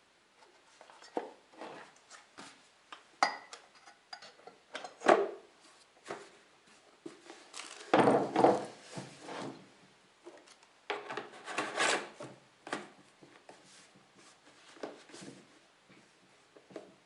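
Parts and packaging of a diesel heater kit being handled: irregular rubbing, scraping and knocks, with a longer clatter about eight seconds in and another around eleven to twelve seconds.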